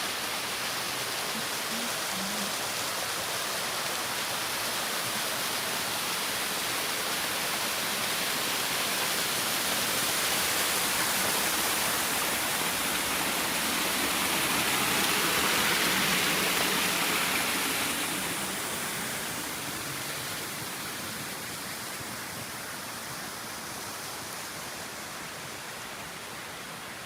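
Rushing water of a waterfall, a steady roar that swells louder past the middle and then eases off a little.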